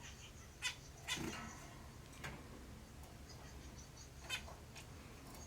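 Zebra finch calling: about five short calls spread over a few seconds, the loudest and longest about a second in.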